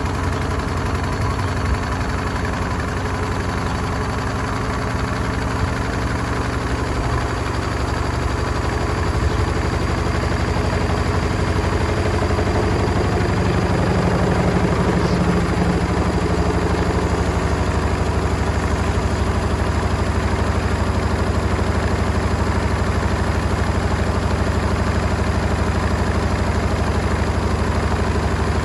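Hotpoint Smart Tech WMFUG742 washing machine spinning a drum loaded with bricks: a steady motor and drum drone that grows a little louder about twelve seconds in, then holds.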